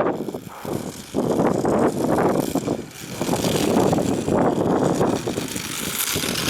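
Wind buffeting the microphone mixed with the rolling rumble of a small land yacht's inline skate wheels. The rumble swells and drops in uneven gusts every second or so.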